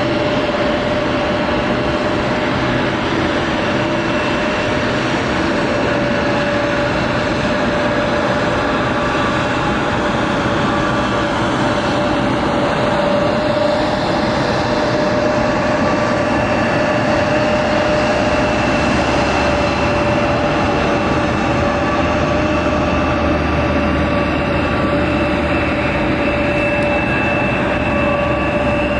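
Boeing 787-10 airliner's jet engines and airflow, heard as a loud, steady roar with a few steady tones over it; the deep rumble grows somewhat in the last third.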